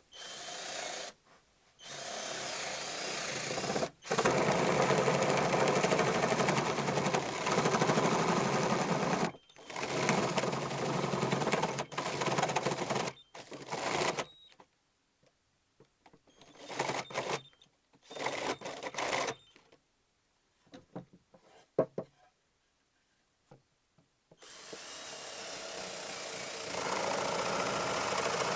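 Power drill running in bursts of a few seconds each with short pauses between, working wood. A few sharp clicks come around the middle, and a steadier run starts near the end.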